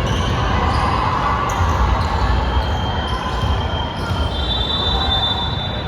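Basketball game play in a large gym: the ball bouncing on the court amid the hall's echo, with a thin high squeal in the second half.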